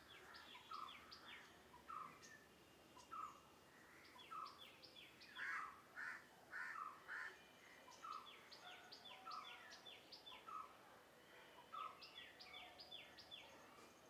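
Faint birdsong: one bird repeats a short note about every second while quick runs of short, higher notes from another bird overlap it, loudest around the middle.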